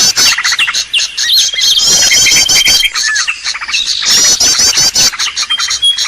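Bird-lure recording of several small birds calling at once: fast chirps and trills over a long held whistle note, with a run of quick chirps that comes back every two to three seconds.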